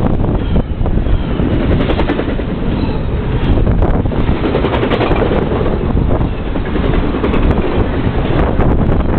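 Intermodal freight cars passing close at speed: a loud, steady rumble of steel wheels on rail, broken by quick clicks and clatter as the wheels and cars go by.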